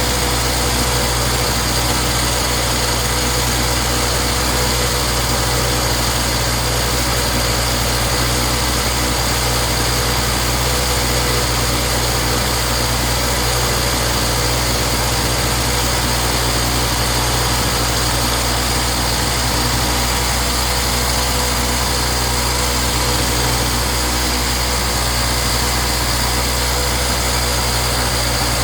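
Gasoline inverter generator's small engine running steadily at an even speed, now starting and running after its no-start fault was traced to spark, fuel and air mixture.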